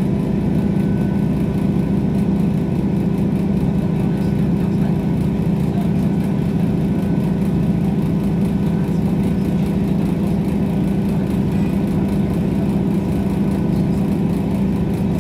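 Steady running noise of a diesel passenger train heard from inside the carriage: an even engine drone under continuous wheel and rail rumble, with no change in pace.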